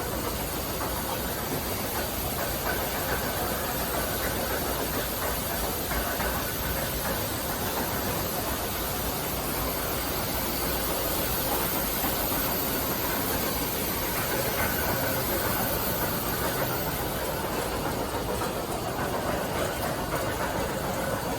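Steady mechanical running noise, a continuous hum with a hiss over it that stays even throughout, from the layer house's automated equipment.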